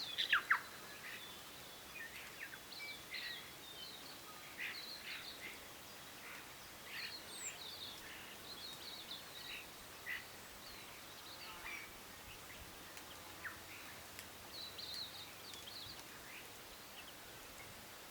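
Birds chirping, with short calls scattered irregularly over a steady background hiss and a louder burst of calls right at the start.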